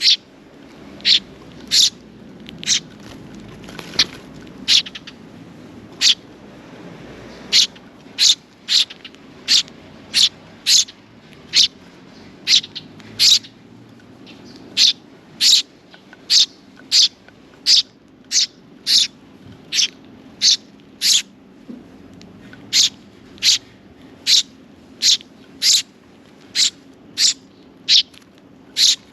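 A sparrow chirping over and over: single short, high chirps repeated about once or twice a second.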